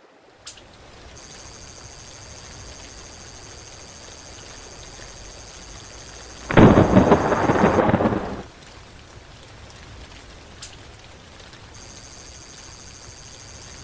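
Steady rain with one loud burst of thunder, breaking suddenly about six and a half seconds in and rumbling for about two seconds.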